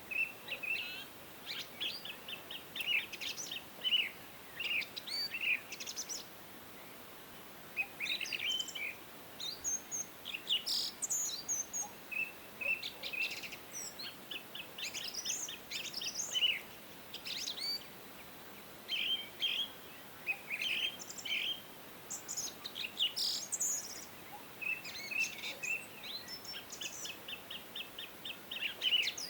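Several songbirds singing and chirping: short whistled phrases and rapid trills of repeated notes, coming in bursts with brief pauses, over a faint steady hiss.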